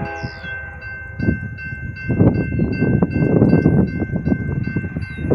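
Grade-crossing warning bell ringing steadily at about three strokes a second as a freight train with several locomotives rolls through the crossing; the end of the train horn fades at the start, and the train's rumble builds about a second in and is loud from about two seconds in.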